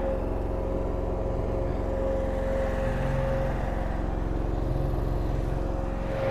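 Engine of an Eastonmade 22-28 firewood processor running steadily, with a constant high whine over the low engine hum. The hum swells briefly twice.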